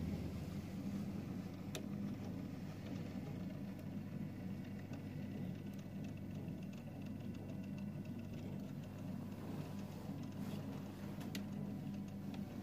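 Märklin Re 4/4 I HO-scale model electric locomotive running on its track: a steady low hum with a few faint clicks.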